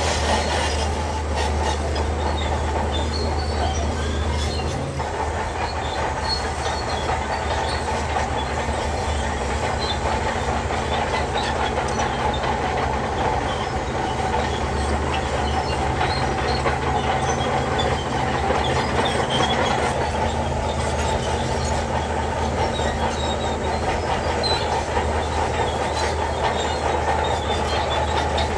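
Shantui DH17C3 crawler bulldozer at work: its diesel engine runs steadily while the steel tracks clank and squeak. The engine note shifts about five seconds in and again around twenty seconds.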